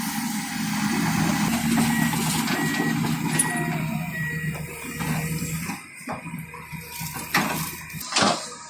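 Heavy earthmoving machine's engine running, with a back-up alarm beeping about four times a little after the start. The engine sound falls away after about six seconds, leaving a few short knocks.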